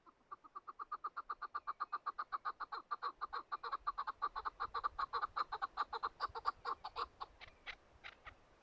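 Chukar partridge calling: a fast, even run of chuck notes at about seven a second, growing louder. It breaks into a few longer notes near the end.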